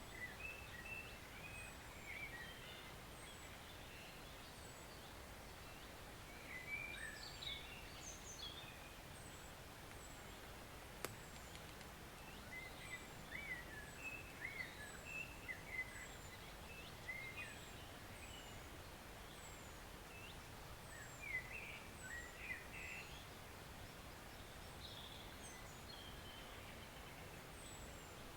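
Faint, steady flow of a woodland stream with birds singing over it: scattered bursts of varied chirps, and a thin high note repeated about once a second. A single sharp click sounds about eleven seconds in.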